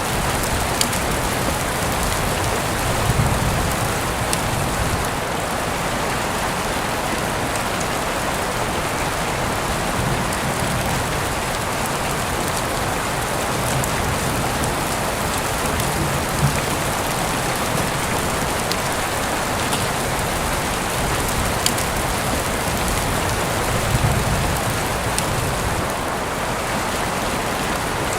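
Steady rain falling, an even hiss throughout, with a few sharp ticks and some soft low swells that come every several seconds.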